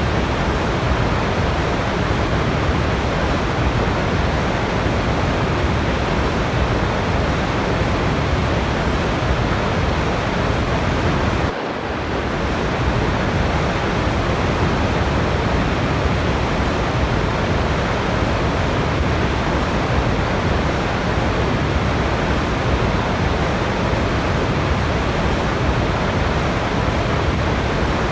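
Waterfall's steady rush of falling water, an even hiss with no changes except a brief dip in level a little under halfway through.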